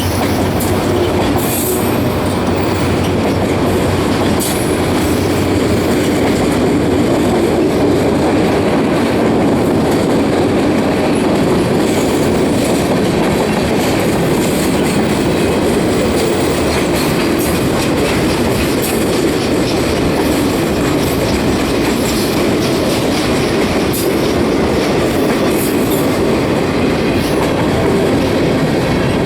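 Freight train cars rolling past at speed: a steady, loud rumble of wheels on rail with clicking over the rail joints and short high metallic squeals now and then. A low hum fades out in the first few seconds.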